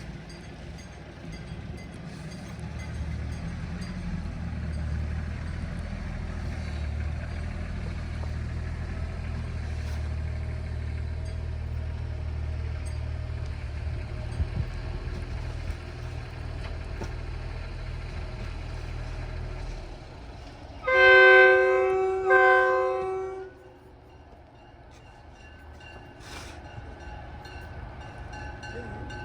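MBTA commuter rail train running with a steady deep rumble, which drops away after about twenty seconds; then the train horn sounds two loud blasts of about a second each, close together, the usual signal that the train is about to move off.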